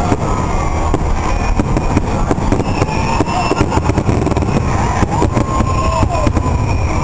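Aerial fireworks display: a rapid run of shell bursts, their bangs coming thick and overlapping over a continuous low rumble.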